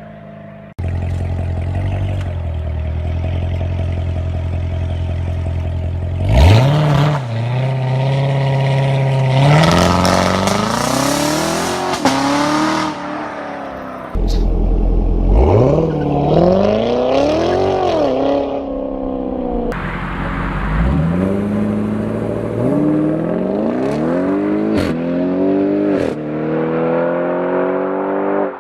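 Performance car's engine under hard acceleration through the gears. It runs steadily at first, then from about six seconds in the revs climb in rising sweeps, each broken by a quick drop at an upshift. An abrupt cut about halfway through starts a second acceleration run.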